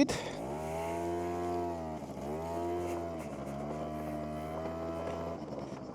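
SYM Jet2 50 scooter's two-stroke engine idling while stopped, a droning tone whose pitch rises, dips twice and then steadies before it stops near the end.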